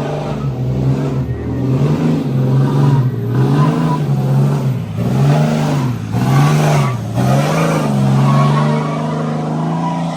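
Pickup truck engine revving hard and held at high revs, its pitch dipping and rising again in a quick run of blips about halfway through before holding high again.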